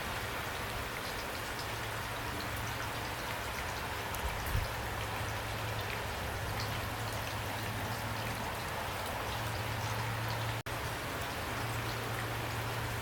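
Heavy rain pouring steadily: an even hiss with scattered single drops ticking, over a steady low rumble. The sound cuts out for an instant about two-thirds of the way through.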